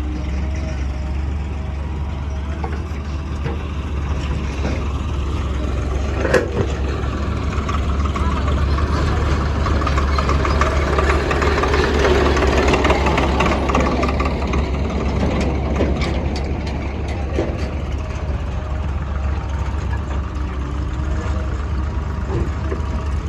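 Heavy diesel engine running steadily, with a single sharp knock about six seconds in and a louder, rougher stretch from about nine to fifteen seconds in.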